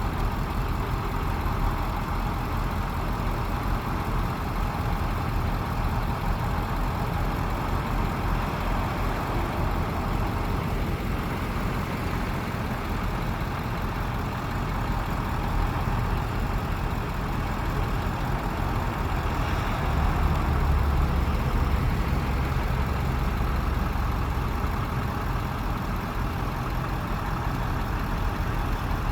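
A truck engine running steadily with a low rumble. About twenty seconds in it grows heavier and louder for a few seconds, then settles back.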